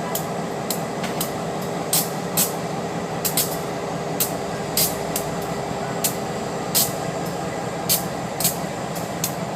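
A train passing close by: a steady rumble and hiss, with sharp metallic clicks every half second to a second as its wheels cross rail joints.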